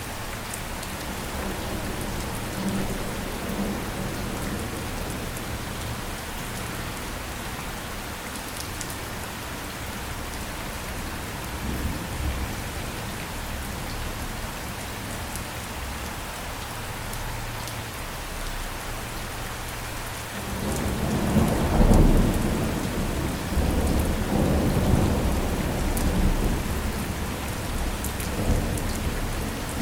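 Steady rain falling, a constant hiss with scattered drop ticks. About two-thirds of the way in, a long low rumble of thunder rolls in and continues, loudest shortly after it starts.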